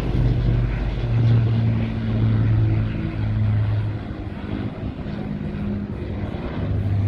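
Avro Lancaster bomber's four Rolls-Royce Merlin piston engines droning as it flies past, a steady low propeller drone that swells and fades slightly.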